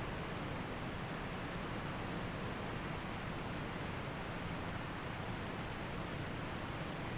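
Waterfall's water rushing steadily, an even, unbroken noise with no separate splashes or other events.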